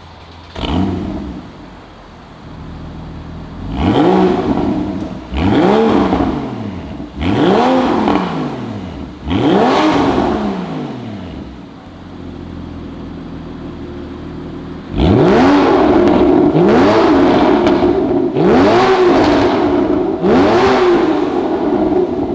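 Porsche Boxster 981 flat-six engine revved through a SOUL Performance aftermarket exhaust. A short flare about a second in, then four quick rev blips about two seconds apart, each rising and falling back. After a few seconds at idle, the revs are held up from about fifteen seconds in, with three further surges.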